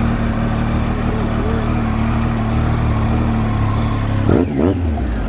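Triumph Tiger 800's three-cylinder engine running steadily at low revs, with a brief louder surge about four and a half seconds in.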